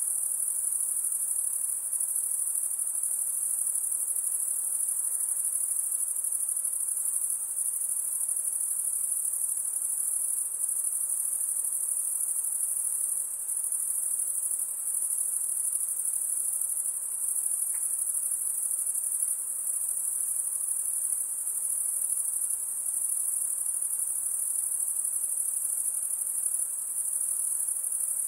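A chorus of insects giving a continuous, very high-pitched shrill buzz that holds steady with a faint even pulsing.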